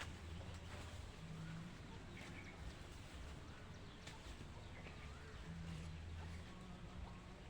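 Faint bird chirps over a steady low rumble, with a few light knocks.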